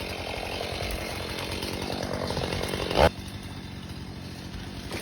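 Chainsaw cutting into a standing tree trunk to fell it. A single sharp crack comes about three seconds in, after which the sound drops to a lower, steadier level.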